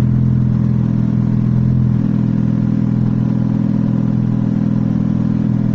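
Car engine idling steadily, with its exhaust note prominent; the idle note shifts slightly about two seconds in.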